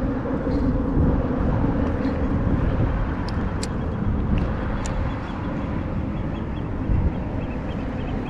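Steady low wind rumble on the microphone over open water, with a faint engine hum in the first couple of seconds and a few light ticks.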